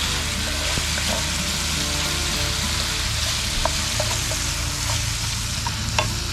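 Homegrown tomato, zucchini, capsicum and garlic frying in butter in a pan, a steady sizzle, with a few light clicks of a utensil against the pan.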